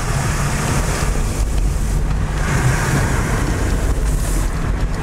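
Toyota double-cab pickup driving on muddy, snow-covered roads: a steady low engine and road rumble under a constant hiss of tyres and wind.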